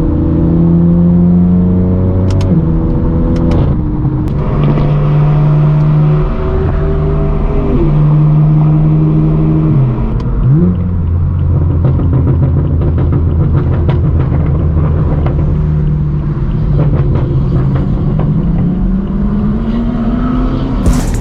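Straight-piped BMW M4 F82's twin-turbo inline-six running loud through a non-resonated AWE track exhaust. It holds steady revs for stretches and drops in pitch a few times, about ten seconds in briefly dipping and coming straight back up, then revs climb steadily near the end.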